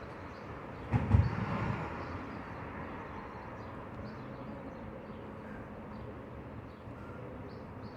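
Steady outdoor background noise, with a brief low rumble about a second in.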